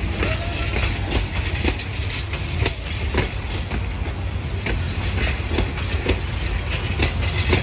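Passenger coaches of an intercity train rolling past close by, their wheels clicking and clattering irregularly over the rail joints above a steady rumble.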